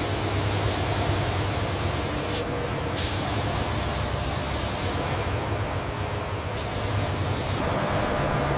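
Robotic paint spray gun hissing in bursts of one to two seconds with short gaps between, over a steady low machine hum.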